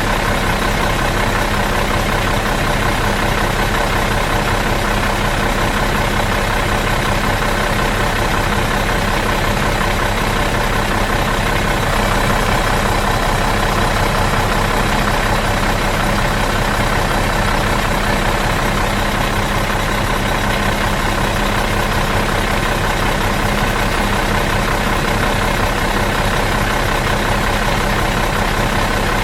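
Bus diesel engine idling steadily out of gear, an even, unchanging running sound.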